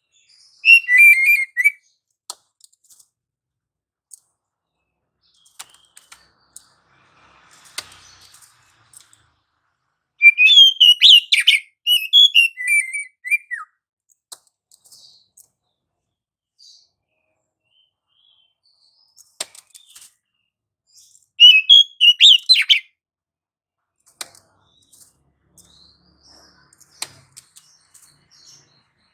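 Oriental magpie-robin (kacer) singing loud, rapid whistled phrases in three bursts: a short one near the start, a longer one of about three seconds about ten seconds in, and another about twenty-one seconds in, with faint clicks between.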